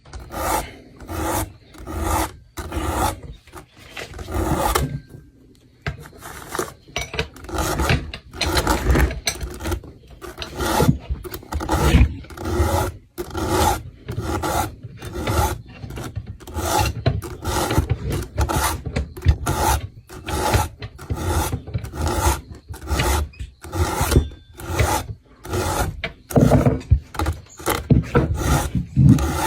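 Round file rasping across a chainsaw chain's cutters in quick repeated strokes, about two a second, with a short pause about five seconds in. Each push is made while turning the file and lifting it slightly.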